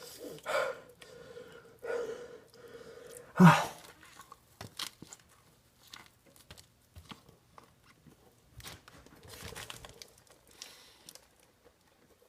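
A man chewing a large mouthful of burger and bacon, with a few louder mouth noises in the first four seconds and quieter scattered chewing after.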